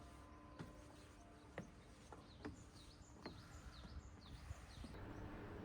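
Small birds chirping, a run of short high repeated chirps through the middle, over quiet outdoor ambience with a few faint light taps.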